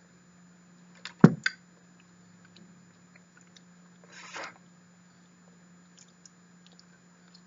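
Soft durian flesh being chewed close to the microphone, with a sharp knock a little over a second in and a short burst of noise about four seconds in, over a steady low hum.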